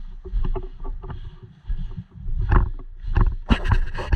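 Irregular knocks and rustles over a low rumble, the loudest cluster of knocks a little past halfway through.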